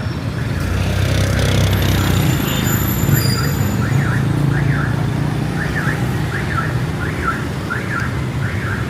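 Busy street traffic running, with an electronic alarm sounding over it from about two seconds in: a repeated rising-and-falling chirp, about twice a second.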